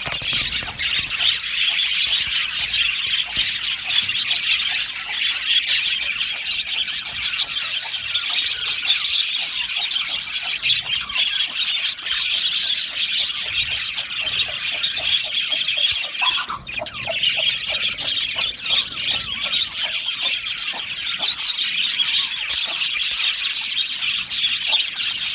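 A flock of budgerigars chattering and chirping together, a dense, continuous mix of many overlapping calls.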